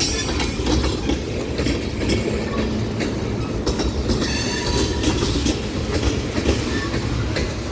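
Freight train cars rolling past close by: a steady rumble of wheels on rail with repeated clicking as the wheels cross rail joints, and a brief high wheel squeal about four seconds in.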